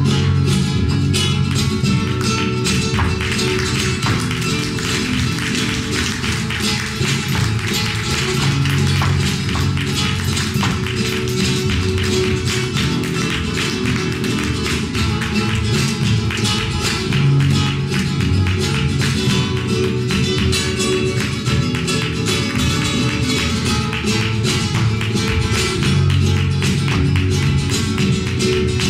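Live flamenco music: a flamenco guitar playing, with many sharp percussive taps throughout, the kind made by a dancer's footwork (zapateado) on the floor.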